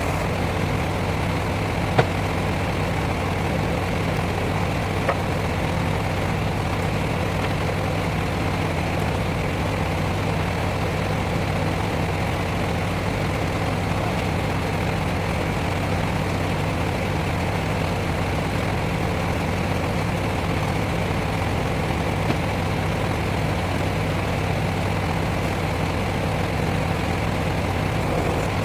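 Heavy lorry's diesel engine idling steadily, with a few brief sharp clicks or knocks.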